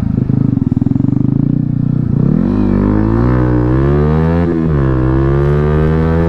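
Loud motorcycle with an SC Project full-system aftermarket exhaust, running at low revs and then accelerating from about two seconds in. Its pitch rises, dips briefly near the middle at a gear change, and climbs again.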